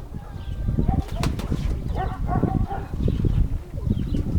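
Domestic pigeons cooing, with a sharp wing flap about a second in, over strong gusty wind rumbling on the microphone.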